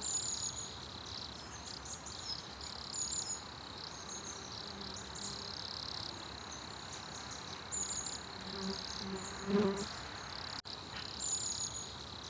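Insects chirring steadily in summer heat, a high continuous drone with short chirps repeating over it. A faint low hum swells briefly about nine seconds in.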